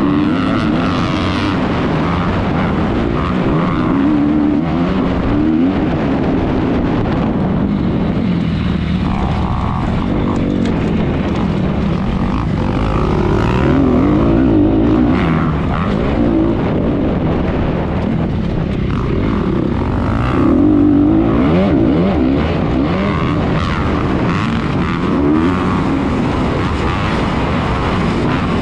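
Honda 250R motocross bike engine racing, its pitch rising and falling again and again as the throttle is opened and shut.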